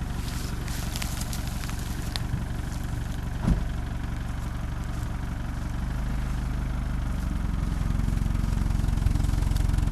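Off-road SUV's engine running under load while the stuck vehicle is rocked backward and forward to get free. The engine grows louder, pulling harder from about six seconds in. There is a single knock about three and a half seconds in.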